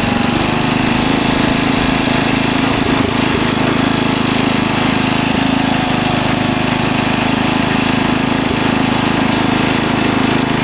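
Sears lawn tractor's engine running steadily and loudly, with no change in speed.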